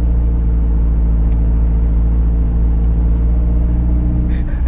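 Engine of a 4x4 SUV driving over soft sand, heard from inside the cabin as a steady low drone at an even engine speed.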